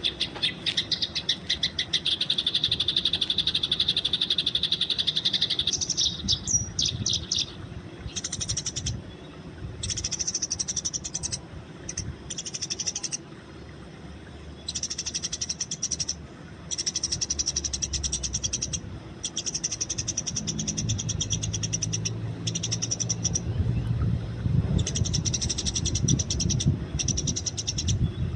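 Eurasian tree sparrows chirping and chattering rapidly, in bursts of a few seconds with short pauses between. A low background rumble grows louder in the last third.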